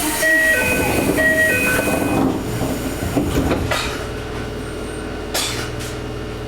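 Toei 5300 series electric train heard from on board while running. A motor whine shifts in pitch in steps over the first couple of seconds, then settles into steady rolling noise with a low hum and a few sharp clacks from the wheels on the rails.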